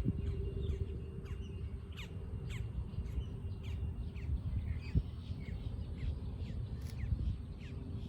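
Small birds calling outdoors: short, quick falling chirps repeated about twice a second, over a steady low rumble.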